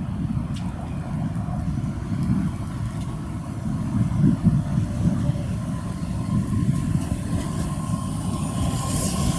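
Electric commuter train pulling into the station along the platform: a steady low rumble of wheels on the rails, with a hiss and a steady high tone coming in near the end as it slows.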